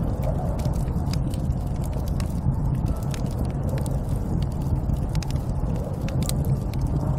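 Snowstorm wind blowing steadily as a deep, even rumble, with many scattered sharp crackles and ticks over it.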